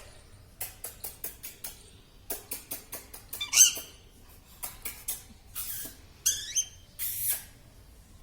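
Plum-headed parakeet making quick runs of short clicks and chirps. There is one louder pitched call about three and a half seconds in, and another short chirp a little after six seconds.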